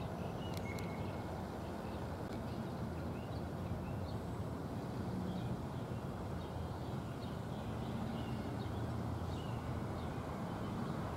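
Steady low rumble of an NJ Transit commuter train moving away, with cars driving over the grade crossing after it, and birds chirping throughout.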